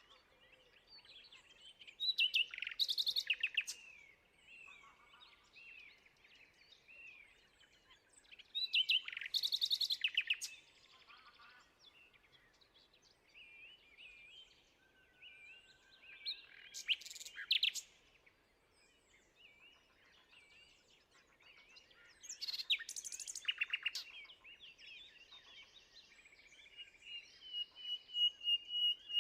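Several songbirds singing: one bird's loud, rapid song phrase comes four times, about every six to seven seconds, over quieter chirps from other birds. Near the end a steady, high, fast trill starts.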